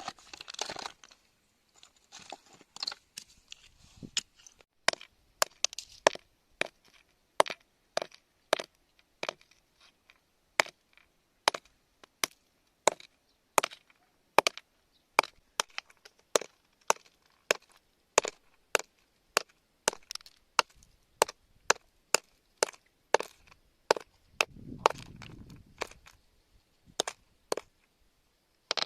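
Repeated sharp knocks on hard material, one or two a second and unevenly spaced, with a short low rumble about three-quarters of the way through.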